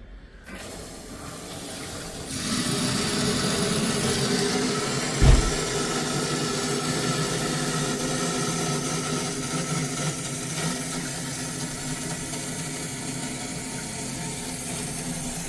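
Water rushing into a new 6-gallon electric utility water heater as the tank is filled, a steady hiss that swells about two seconds in and holds. A single thump about five seconds in.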